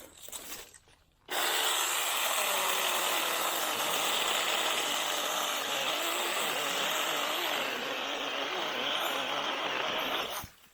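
A 6-inch battery-powered mini chainsaw cutting through a small Chinese tallow tree. It starts abruptly about a second in, runs steadily with its pitch wavering under load, and stops just before the end.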